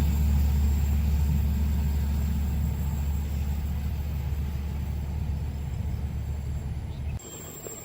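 Low, steady vehicle rumble that slowly fades, then cuts off abruptly near the end.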